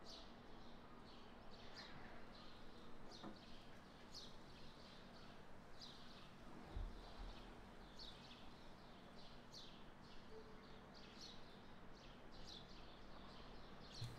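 Faint bird chirps, short falling notes repeating irregularly about once or twice a second, over quiet room tone, with one soft low thump about seven seconds in.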